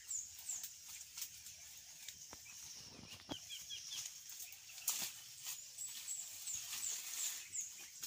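Bird chirps outdoors: series of high, short, downward chirps repeating a few times a second, with a quick run of four lower chirps about three seconds in. Scattered clicks and rustles of twigs and leaves.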